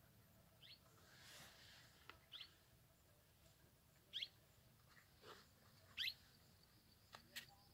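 A bird calling: short chirps that slide down in pitch, repeated about every two seconds and growing louder, over near silence.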